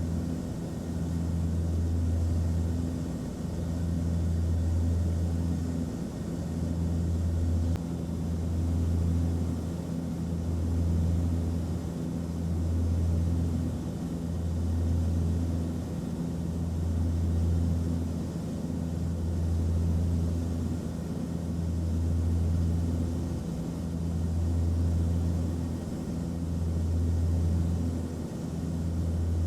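Aircraft cabin noise in flight: a steady engine drone and hiss of air, with a low hum that swells and fades about every two seconds.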